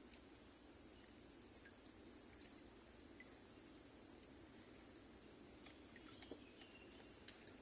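Night insect chorus in tropical mangrove forest: a steady, high-pitched shrill trill on two pitches that does not let up.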